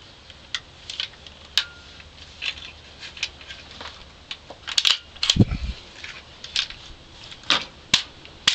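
Metallic clicks and clacks of a Norinco SKS being handled as a steel magazine is seated and the bolt is worked to chamber a round. There is a heavier clack about five seconds in.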